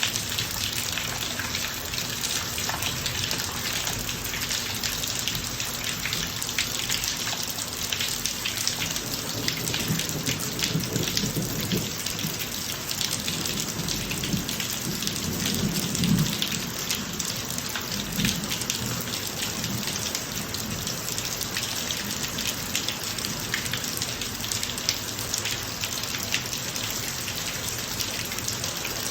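Steady heavy rain falling on a driveway, thick with small drop impacts. A low rumble of thunder builds about a third of the way in, peaks around the middle and fades.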